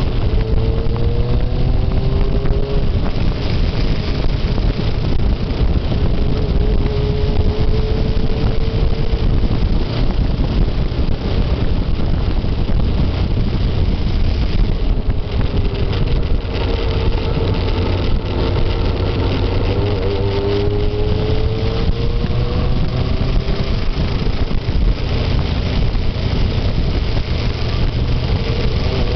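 Motorcycle engine running on the move, its pitch rising and falling several times with throttle and gear changes, over a steady loud rushing noise.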